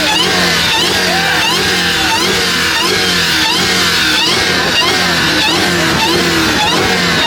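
Car engines revving hard over and over in a loud, continuous run, with short rising and falling pitch sweeps about twice a second.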